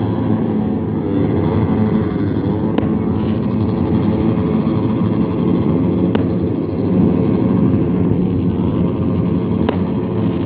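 Many motorcycles with open, unmuffled exhausts revving together in a loud, unbroken din of overlapping engines. Three brief sharp clicks stand out, about three seconds apart.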